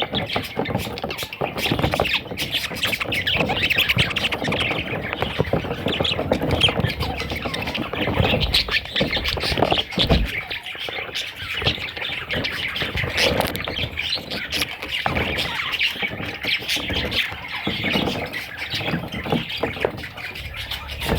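Budgerigar chattering and squawking, a continuous busy stream of short warbled notes and clicks.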